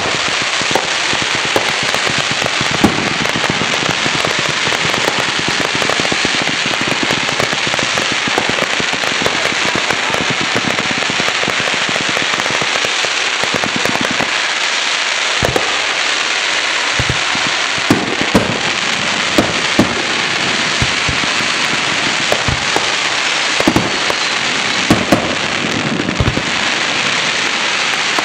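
Aerial fireworks display: a dense, continuous crackle and hiss from many shells at once, with sharp bangs of bursting shells scattered through it. The bangs come in quick clusters about two-thirds of the way in and again near the end.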